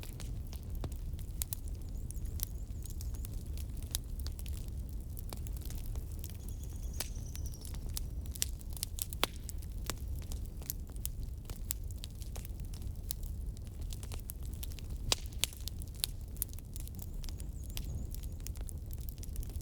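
Wood fire burning with a low steady rumble and irregular sharp crackles and pops of splitting logs.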